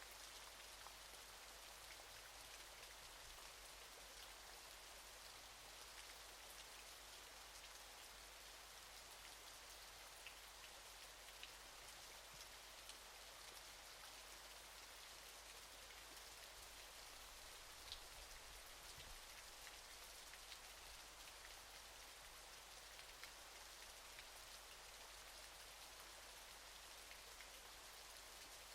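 Steady hiss of falling water from a waterfall, with a few faint scattered ticks like drops.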